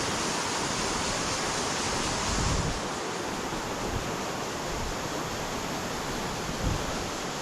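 Rushing mountain-stream water, a steady hiss, with a couple of brief low thumps.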